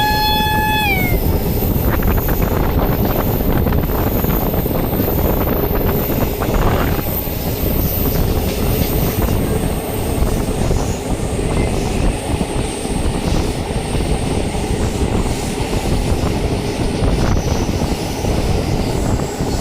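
A WAP-5 electric locomotive's horn sounds for about the first second, then cuts off. After it, the passing passenger train's wheels run on the rails with a loud, steady rumble and a rapid clatter.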